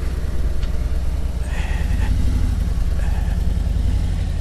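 Vehicle engine running at low speed or idling, a steady low rumble.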